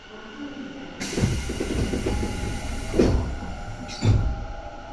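Tobu 9050 series electric train running, heard from inside the car. About a second in, a sudden loud rush of noise starts, with two heavy thuds near the end, and it dies away about three seconds later.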